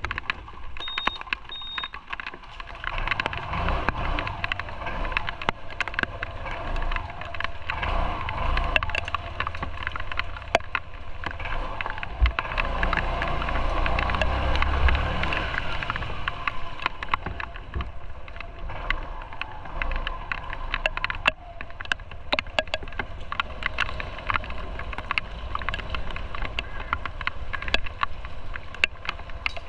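Motorcycle riding along a road: engine and road noise with a low rumble that swells about halfway through, scattered with many short sharp crackles.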